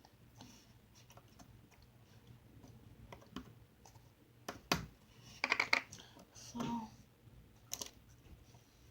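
Pink slime and its plastic container being handled, giving small scattered clicks and a few louder sharp snaps in the middle.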